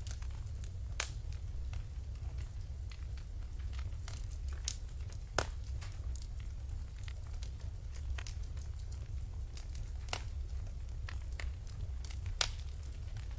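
Wood fire burning in a fireplace: a steady low rumble under irregular sharp crackles and pops, the louder pops about a second in, around five seconds in, at ten seconds and near the end.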